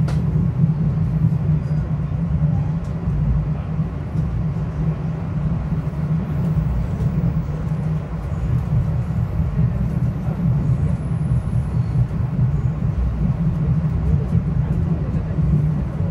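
Steady rumble and hum of a Metro-North commuter train running, heard from inside the passenger car.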